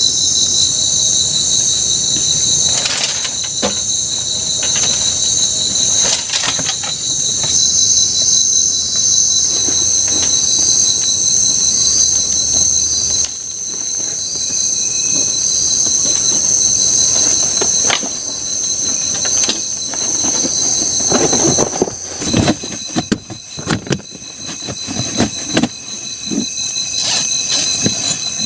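Loud, steady chorus of tropical forest insects: several high-pitched drones layered together, one with a fast pulse. Scattered knocks and rustles break in, most of them together after about twenty seconds.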